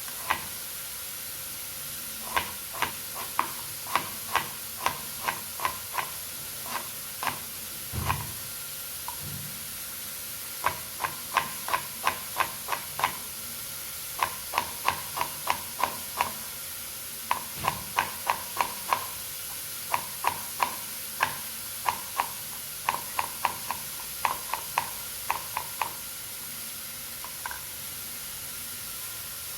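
Knife chopping vegetables finely on a cutting board: runs of sharp taps, about two a second, with short pauses between runs and a couple of duller thumps.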